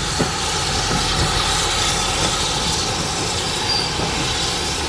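Steam train coming into the station, making a steady, loud rolling noise as the locomotive and carriages pass.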